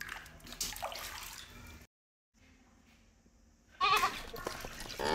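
A short, wavering sheep-like bleat about four seconds in, after a stretch of dead silence, with faint scattered sounds before the silence.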